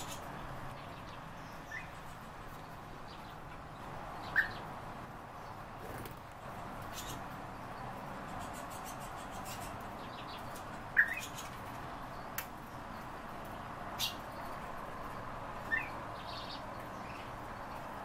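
A few short chirps from caged birds, each a quick rising note, spaced several seconds apart. A couple of small clicks fall between them.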